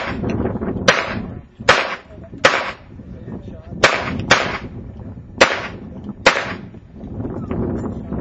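About eight gunshots fired one at a time at an uneven pace over some six seconds, with a close pair about halfway through: a competitor shooting targets in a timed practical-shooting stage.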